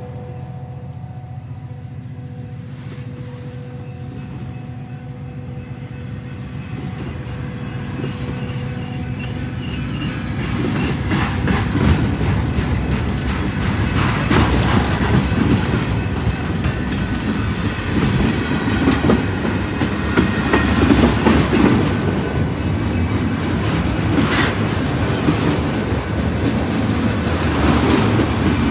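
A freight train's boxcars and autorack cars rolling past close by: steel wheels clacking over the rail joints while the cars rattle, growing louder about a third of the way in. At first a steady hum from the locomotive that has just passed fades away under the rumble.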